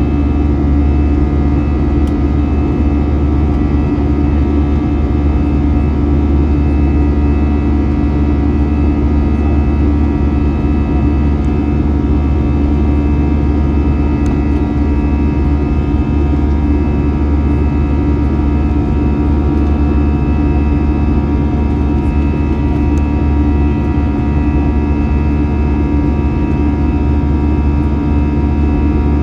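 Airbus A321 jet engines running steadily, heard inside the passenger cabin as a loud, even drone with a low hum and several held tones over a rushing noise.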